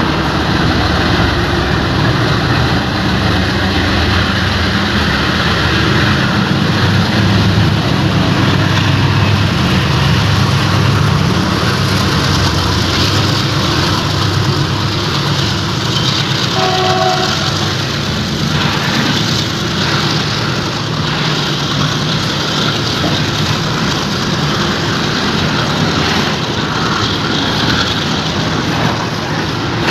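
WDG4G diesel-electric locomotive's V16 engine running hard under load as it hauls a loaded oil tank train, with a brief horn note about halfway through. After that the engine's rumble drops and the tank wagons roll by, wheels clattering over the rail joints.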